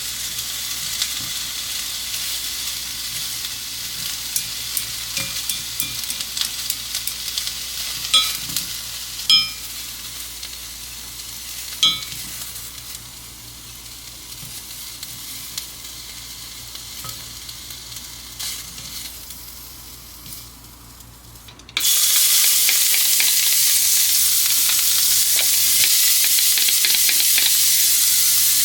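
Food frying and sizzling in a pan, with a few sharp metal clinks of a utensil around the middle. About 22 seconds in it cuts to a much louder, steady sizzle.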